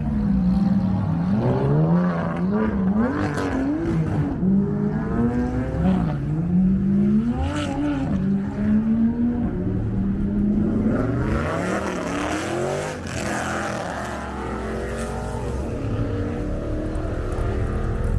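Car engine revving, its pitch climbing and dropping again and again after a steady hold at the start.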